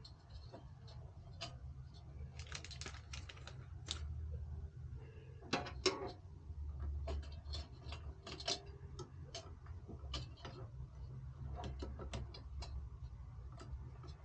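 Irregular small clicks, taps and light rattles of metal and plastic computer hardware being handled during a CPU cooler swap, the loudest a couple of sharp knocks around the middle, over a steady low hum.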